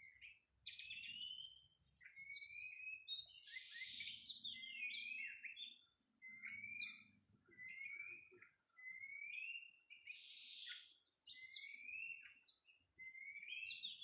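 Oriental magpie-robin (kacer) singing: a string of short rising whistles, about one a second, broken twice by harsh rasping notes.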